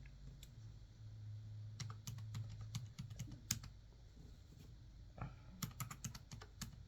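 Typing on a computer keyboard: scattered keystrokes in short runs, entering the cash-drawer count to open the register. A faint low hum runs underneath for the first few seconds.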